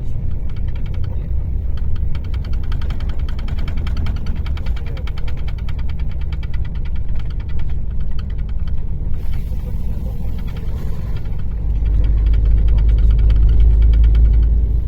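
Mercedes-Benz O-500RSD bus's six-cylinder diesel engine running with a deep rumble and a fast, even clatter of its firing. A brief hiss comes about nine seconds in, and the rumble grows louder for the last few seconds.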